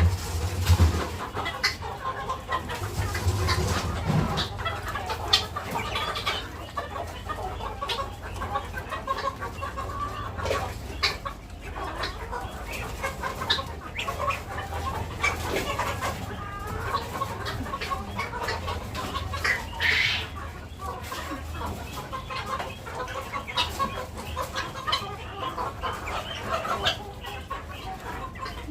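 Chickens clucking continually, many short calls overlapping, with one louder call about twenty seconds in. A low rumble sits underneath for most of the time.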